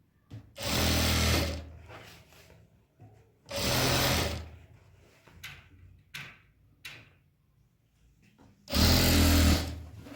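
Sewing machine stitching in three short runs of about a second each, with small clicks and knocks between the runs.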